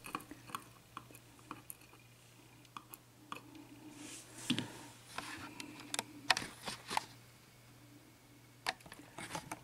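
Faint scattered clicks and light scrapes of small metal lock parts being handled: pins and wafers from a gutted mortise cylinder moved about, with a busier stretch of handling in the middle.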